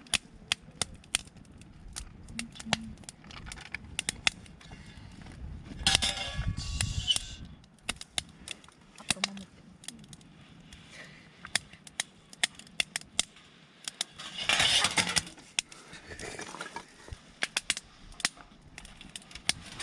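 Wood campfire crackling, with frequent irregular sharp pops. Two louder stretches of rushing noise come about six seconds in and again about fifteen seconds in.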